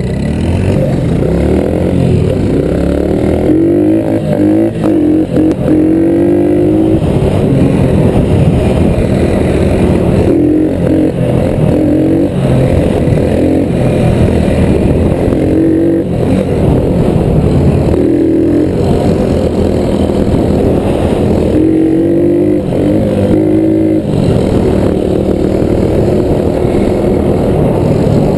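Small single-cylinder four-stroke engine running loud and revving up and down in short bursts, again and again.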